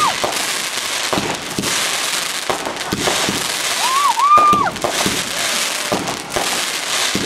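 Fireworks going off: dense crackling with repeated sharp bangs and pops.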